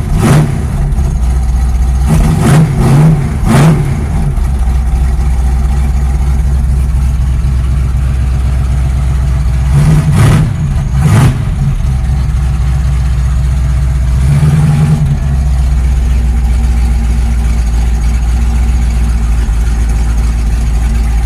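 Ford Pinto engine running steadily from inside the cabin while it warms up after a cold start, having sat for four months. The note rises briefly several times: near the start, twice around 2.5 to 3.5 seconds in, twice around 10 to 11 seconds, and once around 14 seconds.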